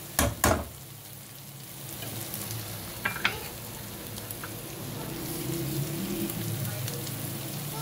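Ridge gourd curry sizzling as it fries in a metal pot, with two sharp knocks of a metal slotted spoon against the pot right at the start and a couple of lighter clicks about three seconds in.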